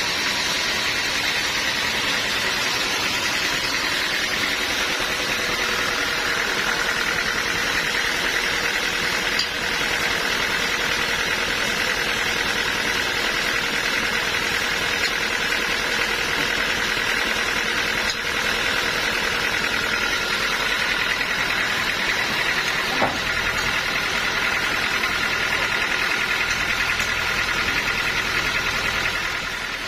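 Sawmill machinery running steadily: an engine with the saw under way, a continuous mechanical din with a steady whine.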